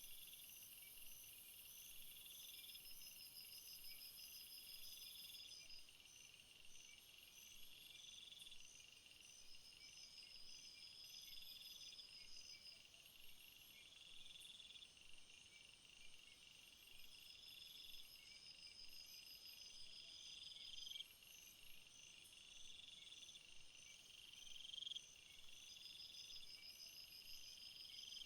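Faint insect chorus: several high-pitched chirps and pulsing trills repeating steadily and overlapping, with a rising buzz about every two seconds.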